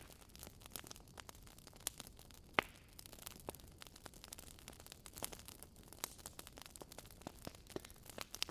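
Wood fire crackling in a fireplace: a steady low hiss with many small irregular pops and snaps, one sharper pop about two and a half seconds in.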